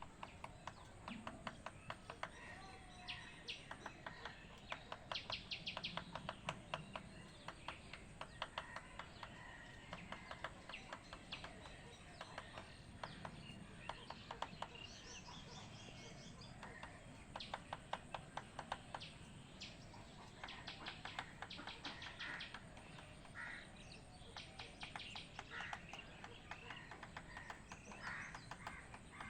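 Bird calling in runs of rapid, dry clicking or chattering notes, several seconds at a time, with short chirps between the runs.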